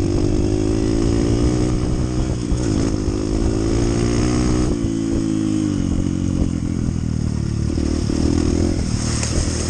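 Honda CT125's single-cylinder four-stroke engine running on the move, its note shifting with the throttle, with a drop in pitch a little under five seconds in.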